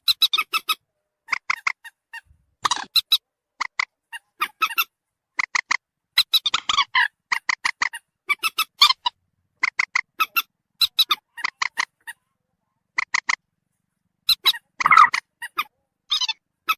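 Recorded calls of the mandar batu (common moorhen), played as a lure: short, sharp, squeaky notes in quick clusters of two to four, with silent gaps between. One longer, louder, harsher call comes about 15 seconds in.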